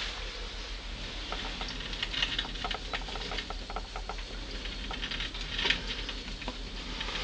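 A domestic cat chattering at birds: bursts of quick, irregular clicking and ticking.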